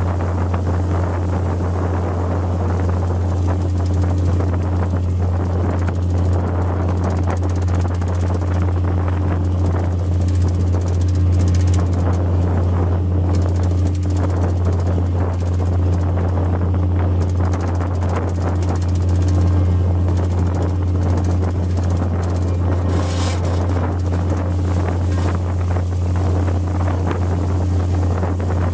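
Steady low drone of a fishing boat's diesel machinery running at constant speed, with wind on the microphone.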